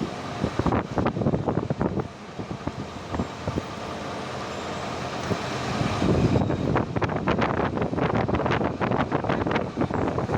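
Biscuit production-line machinery running: a steady mechanical rumble with rapid, irregular clattering that thickens about six seconds in.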